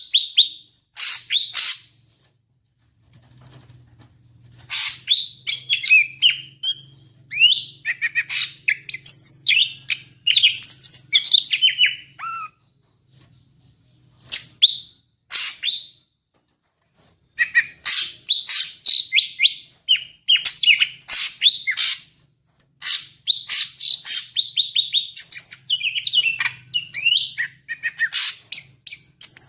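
Cucak ijo (greater green leafbird) singing a long, varied song of quick chirps, sweeping whistles and trills, delivered in rapid phrases with short pauses between them.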